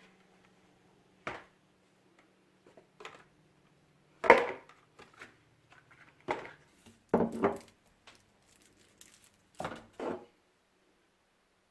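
Irregular knocks and clatters of objects being handled, about eight in all, the loudest about four seconds in, with a faint steady low hum under the first half.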